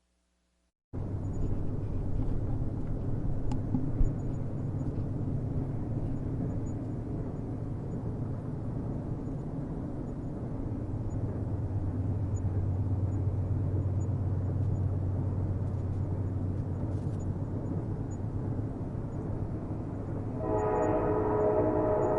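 Train rumbling steadily, low and even, starting suddenly about a second in, with one sharp knock a few seconds later. Near the end a train horn sounds a steady chord of several notes at once.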